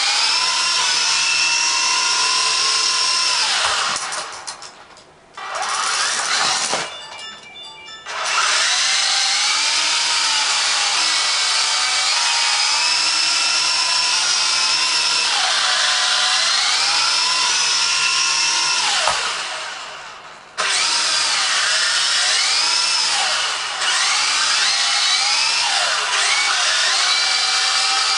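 Syma S022G RC helicopter's small electric motors and rotors whining, the pitch rising and falling with the throttle. Twice the whine winds down almost to nothing and spins back up: once about four seconds in, with a second dip just after, and again about twenty seconds in.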